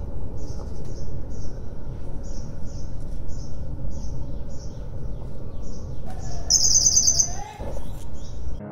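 A bird chirping repeatedly, about two short high chirps a second, with a brief louder trill about six and a half seconds in, over a steady low background rumble.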